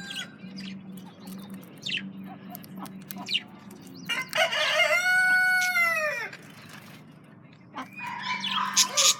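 Budgerigars chirping now and then, with one loud, long call about four to six seconds in that bends down in pitch at its end, over a steady low hum.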